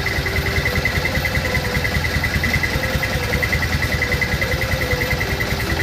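Truck diesel engine idling through a Takalar-style 'cung' exhaust, with an even, rapid pulsing of about six beats a second.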